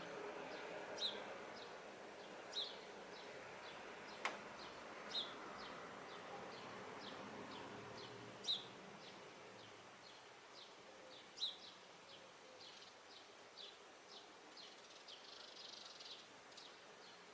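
House sparrows chirping, short sharp chirps that come a few at a time at first and then about two a second in the second half. A single sharp click about four seconds in.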